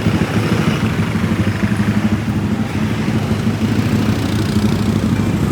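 Small motorcycle engine idling steadily, a low even putter.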